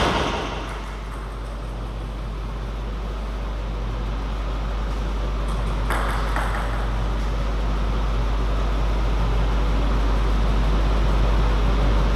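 Steady low electrical hum with an even background hiss, and a single sharp knock at the very start and a brief noisy rustle about six seconds in.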